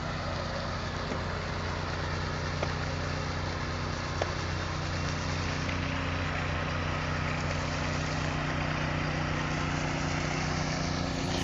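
Heavy diesel truck engine running steadily at a concrete pour, a low even hum with a few faint knocks in the first half.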